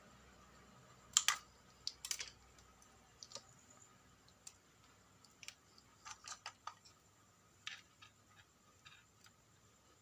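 Irregular small clicks and taps of hard parts being handled, loudest about a second in and again at two seconds, with a quick cluster around six seconds. A faint steady high tone runs beneath them.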